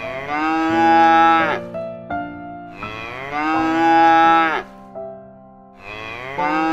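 Cow mooing: two long moos of about one and a half to two seconds each, and a third starting near the end, each dropping in pitch as it ends.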